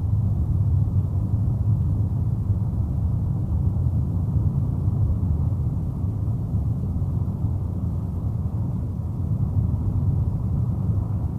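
Steady low rumble of a car's engine and tyre noise heard from inside the moving car.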